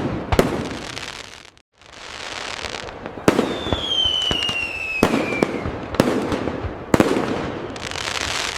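Fireworks going off: a series of sharp bangs with crackling in between, and a whistling firework whose tone falls in pitch for about two seconds near the middle. The sound drops out briefly about a second and a half in.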